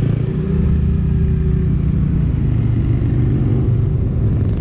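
Motorcycle engine running steadily, a loud low hum with a few held tones.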